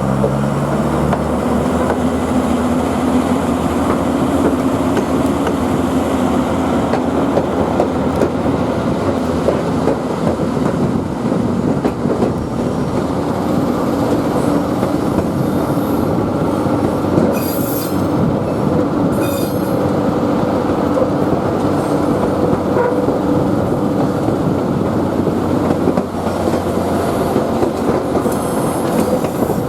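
Queensland Rail 2000 class diesel rail motor running along the track: a steady engine drone and wheel rumble on the rails, the engine note rising in the first couple of seconds. Short high-pitched screeches come a few times in the second half.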